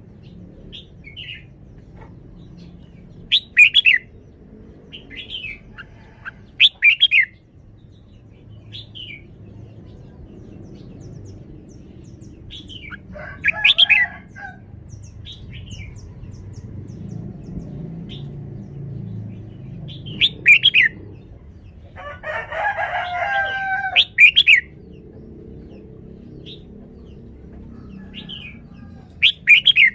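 Red-whiskered bulbul singing short, loud whistled phrases, about six of them spaced a few seconds apart, over a low steady background hum. About two-thirds of the way through, a longer, lower-pitched call lasts about two seconds.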